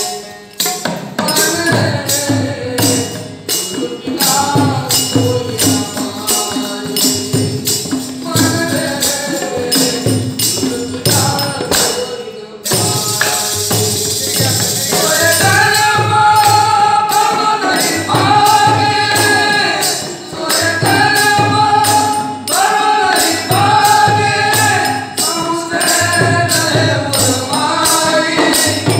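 Marathi ektari bhajan music: a fast, steady percussion beat with jingles throughout, over a held drone in the first half; a bright crash of cymbals about thirteen seconds in, after which voices sing in chorus over the beat.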